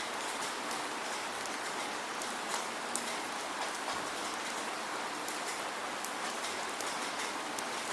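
Steady rain without thunder: an even hiss of rainfall with many small drops ticking on a surface.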